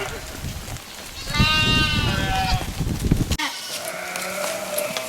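Sheep bleating: one loud bleat about a second in, then a fainter, lower one from another animal in the flock.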